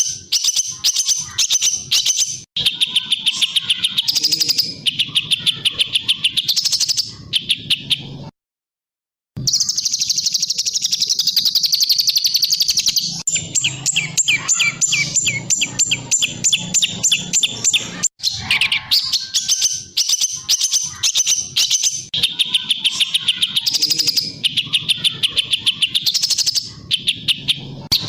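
Songbird song built from fast runs of sharp, repeated notes, the rapid-fire chattering 'tembakan' style used as master song for training cage birds. It breaks off for about a second of total silence about eight seconds in, then runs on.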